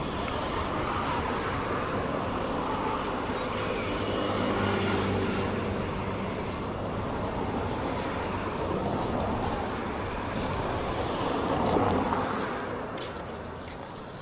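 Road traffic: motor vehicles driving past, with the loudest one passing about twelve seconds in and fading away.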